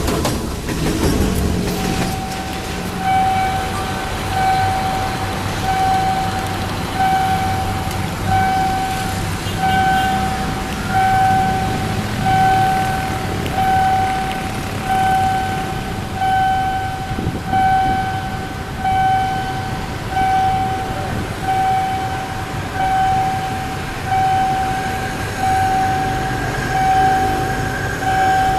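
The rumble of a passing train dies away over the first couple of seconds, then a single-pitched electronic warning beep repeats evenly about every second and a half, over a low rumble.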